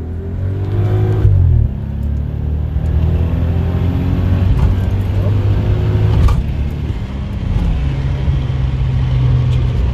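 Toyota Aristo's twin-turbo 2JZ-GTE straight-six under hard acceleration, heard from inside the cabin. The engine note rises, drops sharply at an upshift about a second and a half in, climbs again, and steps down once more near eight seconds.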